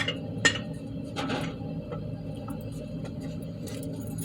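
A few light metallic clinks as a steel caliper retaining spring clip is worked into place by hand on a front brake caliper, over a steady low hum.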